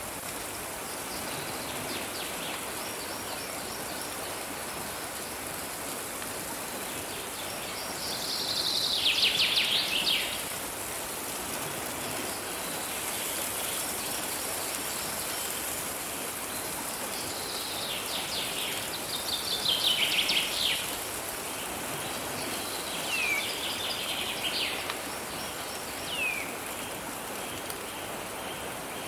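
A songbird singing several fast trilled phrases, the loudest about a third and two-thirds of the way through, over a steady background hiss of running water or rain.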